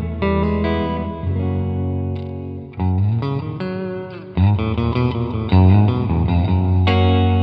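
Electric guitar played through an Alabs Cetus reverb pedal on its plate reverb setting: a run of picked notes and chords, each ringing on into the next.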